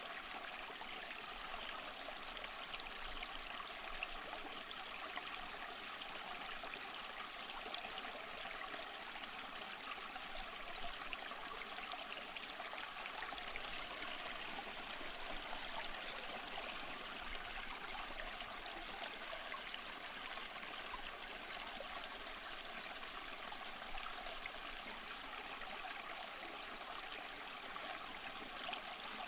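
Running water rushing steadily with a hissy, trickling splash and no change in level. The recording is sold as a waterfall, though the sound itself is light and high, more like a stream or small cascade.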